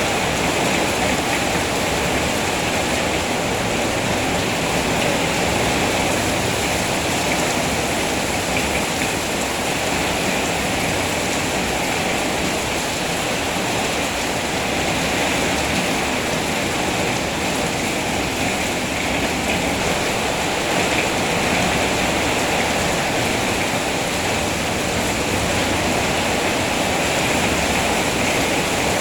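Steady rain falling, a constant even hiss with no separate drops, thunder or other events standing out.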